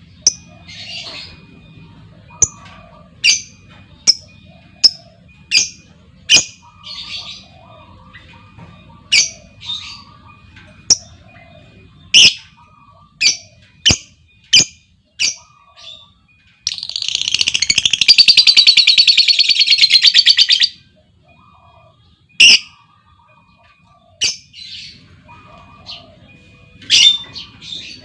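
Lovebird calling in sharp, high single chirps about once a second. About two-thirds of the way in comes a loud, very rapid chattering trill lasting about four seconds: the long 'ngekek' trill that keepers prize.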